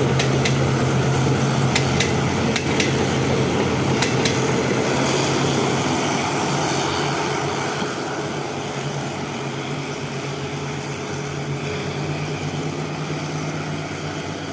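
Passenger train pulling away: carriage wheels click in pairs over the rail joints for the first four seconds or so, over a steady low diesel drone that slowly fades as the train draws off.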